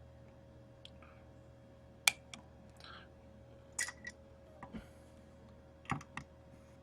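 Scattered sharp clicks and a little soft rustling from handling trading cards and a plastic card holder on a table, the loudest click about two seconds in.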